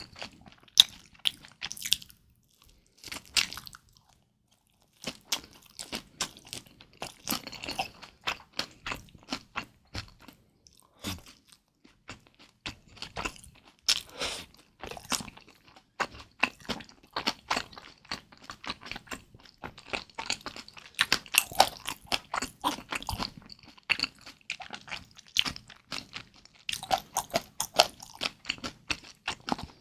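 Close-miked chewing and biting of kimchi dumplings: a dense run of small, sharp crunchy clicks, with a short lull a few seconds in.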